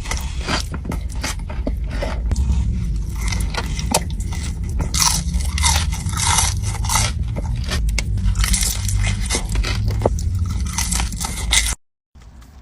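Close-miked eating of crunchy food: repeated crisp bites and crunching chews. It cuts off suddenly near the end, and a quieter sound follows.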